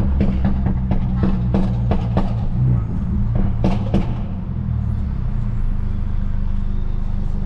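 Straight-piped, turbocharged Mercedes-Benz C250 engine and exhaust droning on the move. A series of sharp cracks sounds over the first four seconds, then it settles into a steady, even drone.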